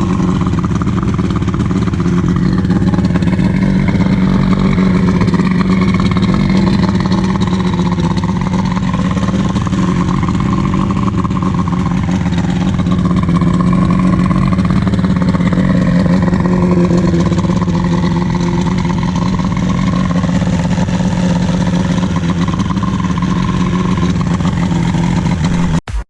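An engine running steadily at an even speed, with a strong constant hum.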